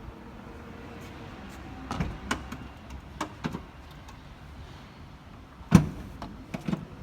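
Porsche Macan tailgate being closed onto its adjustable rubber stops, with a few light clicks and knocks and then one loud thud a little before the end as it shuts. The close tests whether the two stops now bear evenly, the cure for a knocking tailgate.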